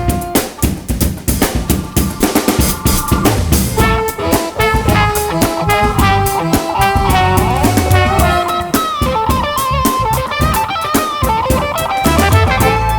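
Live band playing an instrumental break: a drum kit keeps a busy beat with bass and guitar underneath. From about four seconds in, a melodic lead line joins, bending in pitch.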